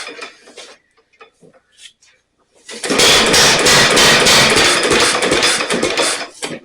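1927 Ottawa 4-5 HP single-cylinder stationary engine firing and running loudly with rapid exhaust beats for about three and a half seconds, starting near the middle and dying away near the end. It runs only briefly and won't keep going, a fault the owner has to take the engine apart to find.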